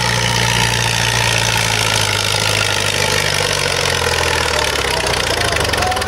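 Modified pulling tractor's engine running loud and steady, its note easing down slightly about four seconds in.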